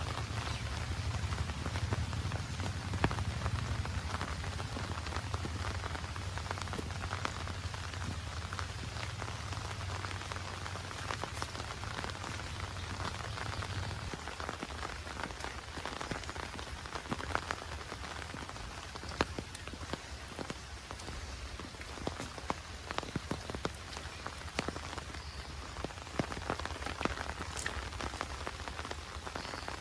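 Heavy monsoon rain falling steadily, with many sharp close drop hits over the even hiss and a low rumble that eases about halfway through.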